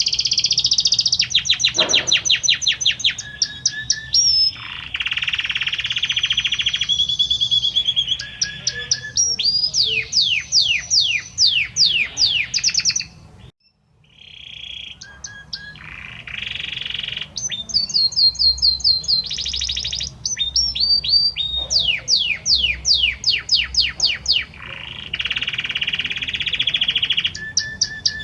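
Male Belgian canary singing a long, varied song of rapid trills, buzzy rolled phrases and runs of quick falling whistles, with a short break about halfway through.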